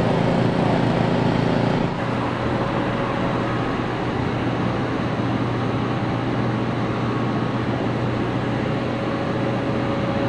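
Steady mechanical running noise with a constant hum under it; its tone shifts abruptly about two seconds in.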